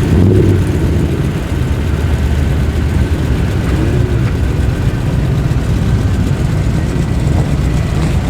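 Tuned car engines rumbling low as the cars roll slowly past.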